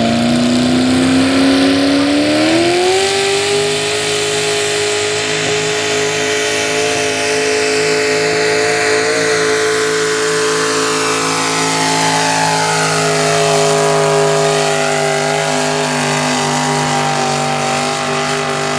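Pulling pickup truck's engine at full throttle under the load of the sled: its revs climb over the first three seconds or so, then hold at a high, steady pitch for the rest of the run.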